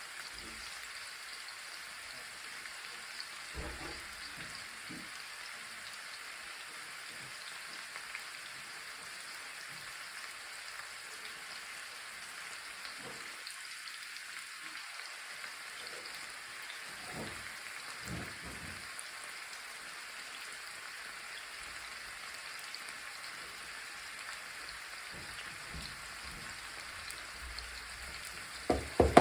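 Food frying in a pan, a steady crackling sizzle, with a few soft knocks and two sharp knocks near the end.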